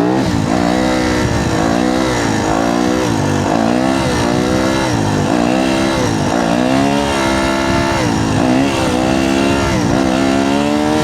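Yamaha YZ250F dirt bike's single-cylinder four-stroke engine revving up and down over and over, the pitch climbing and dropping about once a second.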